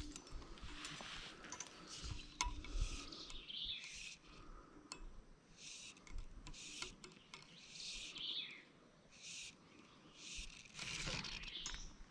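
Faint wild birds calling: a short call sliding down in pitch twice, about five seconds apart, among other brief high chirps.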